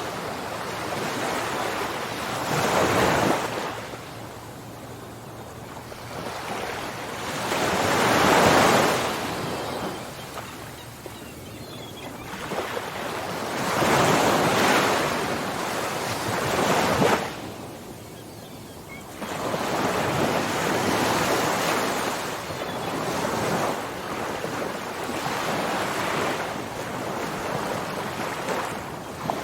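Ocean waves breaking and washing on the shore, swelling and falling back in surges about every five to six seconds.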